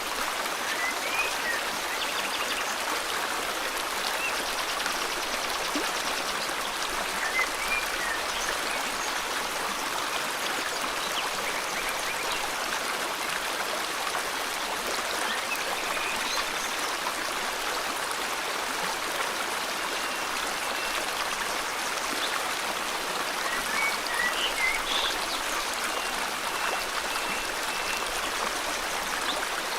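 A river flowing steadily, with short bird chirps heard now and then above it, several of them near the end.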